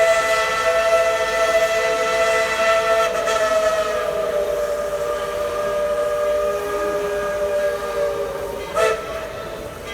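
Steam locomotive chime whistle, Tweetsie Railroad No. 190's original White Pass whistle, blowing one long blast of several tones sounding together. Its pitch sags slightly partway through and it fades slowly, with a short sharp blip near the end.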